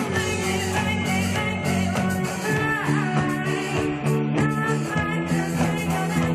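A rock band playing, with electric guitar prominent over a steady beat.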